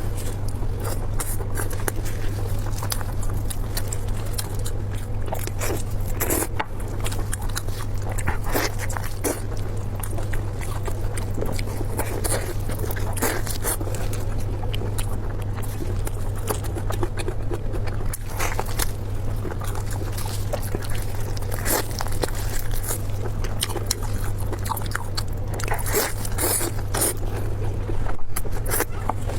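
Close-miked eating sounds: chewing and biting with many short, sharp clicks and crunches, over a steady low hum.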